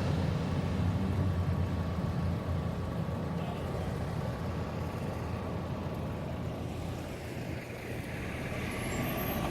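Cessna 208 Caravan's single turboprop engine running, its sound fading away and then growing louder again near the end.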